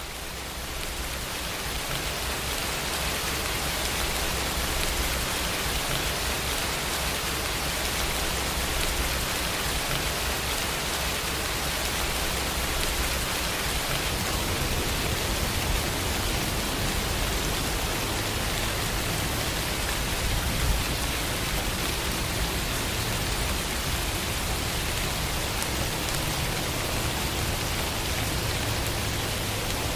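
Steady, dense rain falling, swelling up over the first few seconds and then holding even.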